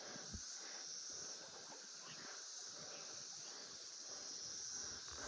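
Chorus of cicadas, a steady high-pitched drone.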